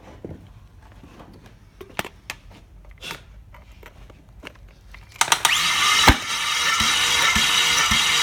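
A few clicks and knocks, then about five seconds in the X20D1 2.0 straight-six is spun over on its starter for a compression test: a loud steady whirr with regular thumps, about two to three a second.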